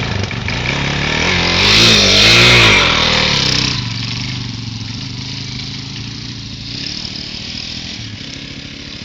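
Dirt bike engine revving up and pulling away, its pitch rising and falling a couple of times, loudest about two seconds in, then fading steadily as the bike rides off.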